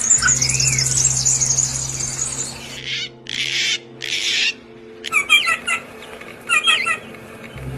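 Songbirds calling: a fast high trill, then two short harsh squawks, then quick repeated chirp phrases from about five seconds in. A steady low hum runs underneath and stops just before the end.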